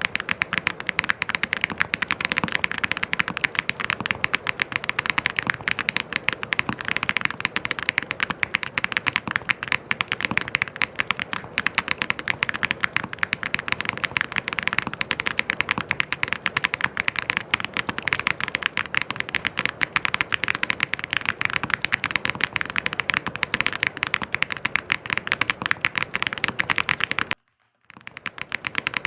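Fast, continuous typing on a mechanical keyboard: a dense stream of key clicks and clacks, briefly cut to silence for about half a second near the end before the typing resumes.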